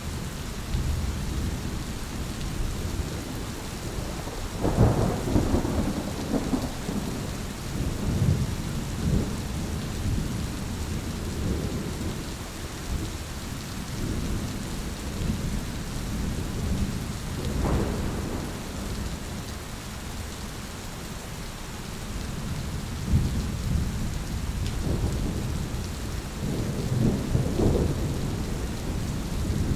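Thunderstorm: steady rain with rolling thunder, the rumbles swelling and fading several times, loudest about five seconds in and again near the end.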